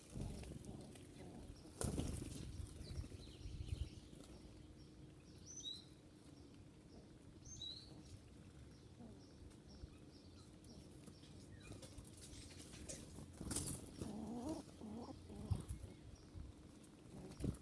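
Birds moving about, with wings flapping, scattered light knocks and rustles, and two short high chirps a few seconds in.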